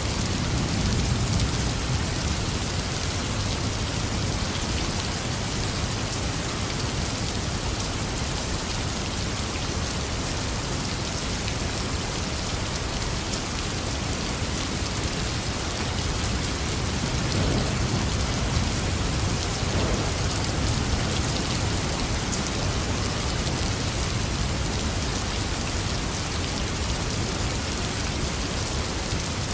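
Heavy rain falling steadily, with low rumbles of thunder about a second in and again a little past halfway.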